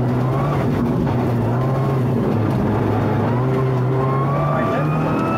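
Rally car's engine running under load, heard from inside the cockpit as a steady low drone, with a thin whine rising in pitch over the last couple of seconds.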